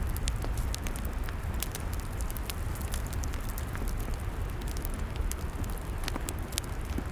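Log fire crackling, with frequent sharp pops and snaps over a steady low rumble.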